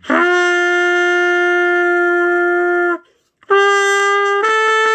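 Trumpet played by a beginner practising making sounds: one long held note of about three seconds, a brief break, then a new note that steps up to a higher pitch.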